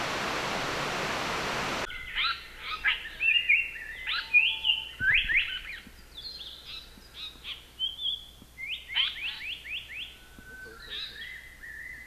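A steady rushing noise cuts off suddenly about two seconds in. Then a Japanese paradise flycatcher sings a run of quick, falling chirps and whistles, with longer, lower whistles near the end.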